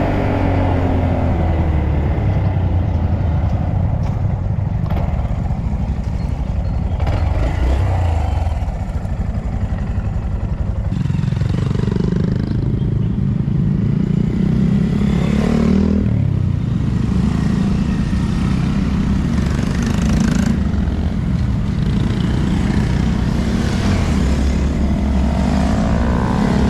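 Honda Monkey 125 single-cylinder motorcycle engine running under way, its note stepping up about eleven seconds in and dropping again around sixteen seconds.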